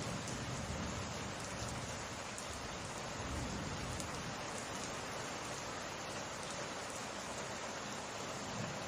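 Rain of a summer rainstorm falling steadily, an even, unbroken hiss of drops.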